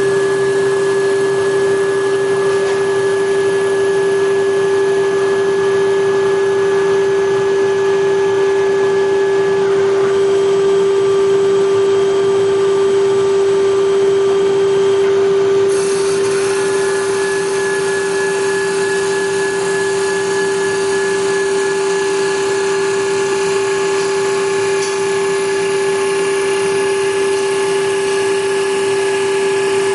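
Hager HD300A-CNC computer-controlled wood lathe running, with a steady motor whine over a hiss. About halfway through the high hiss grows louder and stays so.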